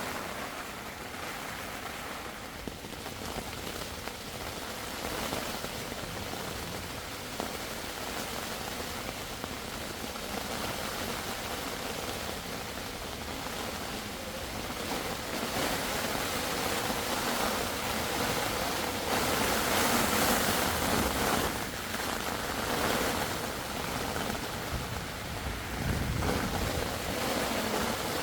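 Heavy rain falling steadily, a continuous hiss that swells louder in the second half.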